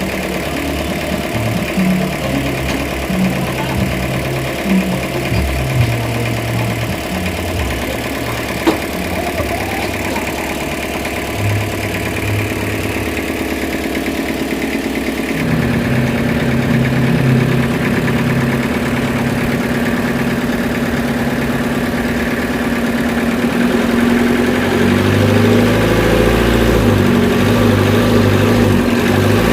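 Engine of sawmill machinery running steadily, with a few short knocks in the first half. It picks up about halfway through and rises again near the end.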